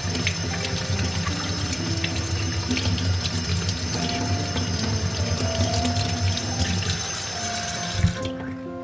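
Water running from a tap into a sink, a steady gushing with a thin high whine, shut off about eight seconds in just after a short thump. Soft background music with held notes plays underneath.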